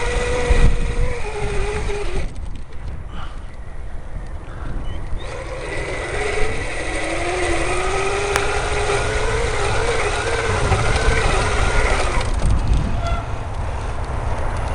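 Electric bike motor whining as it rides through soft sand. The pitch sags early on and drops away for a few seconds, then climbs slowly as the bike picks up speed again. Wind rumbles on the microphone throughout.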